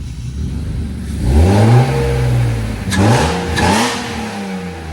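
1997 BMW E36's engine revved: the pitch climbs about a second in and falls back, then comes two more quick revs, before it drops back toward idle.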